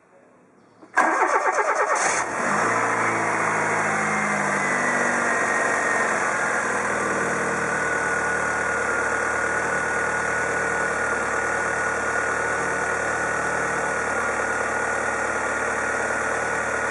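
Fiat Tipo 1.6 four-cylinder engine cranking and catching about a second in, then running steadily on its reinstalled old idle air control actuator. A thin high whine over the engine drops slightly in pitch during the first few seconds of running.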